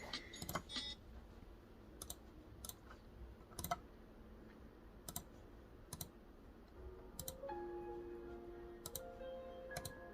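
Sparse, irregular light clicks, one every half second to a second, with faint held musical tones coming in about seven seconds in.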